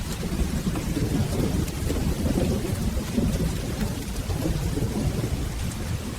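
Steady rain under a low, continuous rumble of rolling thunder.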